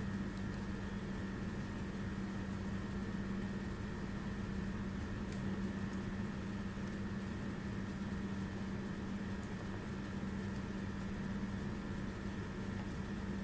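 Steady low hum from a running appliance, with a light hiss and a faint tick about five seconds in.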